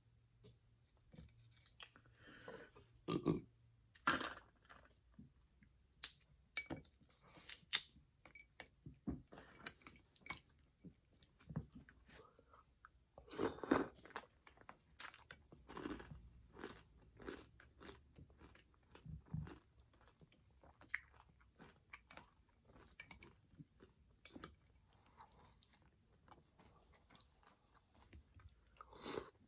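A person chewing and biting crisp fried wonton strips, with many irregular crunches.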